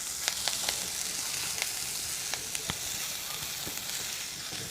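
Chopped onion, green chillies and garlic frying in hot oil in a pan: a steady sizzle with scattered sharp crackles and pops.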